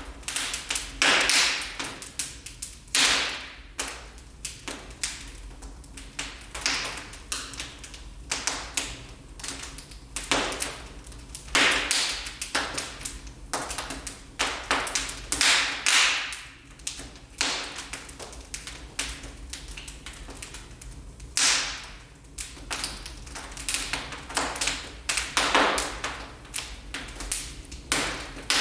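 Wood fire burning in a fireplace, crackling and popping in irregular sharp snaps, some loud and some faint, over a low steady hiss.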